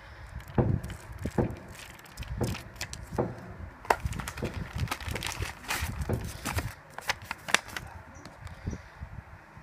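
Plastic packaging crinkling and crackling as it is handled, with many sharp crackles that thin out in the last couple of seconds.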